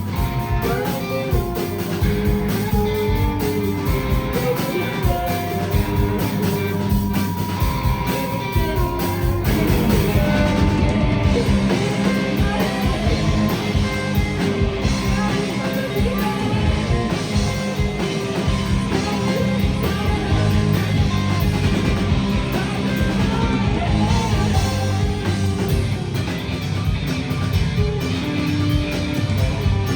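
Rock band playing live: guitars over a drum kit. The top end thins out about ten seconds in.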